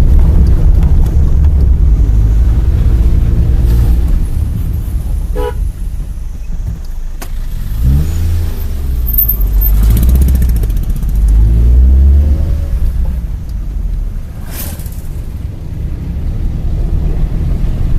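Car driving, heard from inside the cabin: a steady low engine and road rumble, with a pitched tone that rises and falls twice around the middle.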